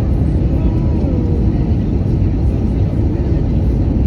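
Steady, loud low rumble of an Airbus A320 heard from inside the passenger cabin: engine and airflow noise during the approach or landing. A faint short falling whistle comes through about a second in.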